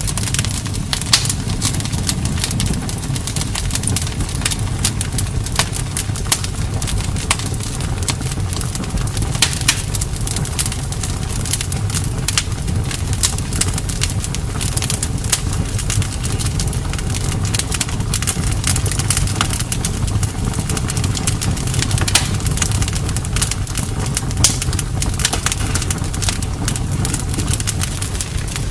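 Campfire crackling, with frequent small pops and a few sharper snaps over a steady low rumble.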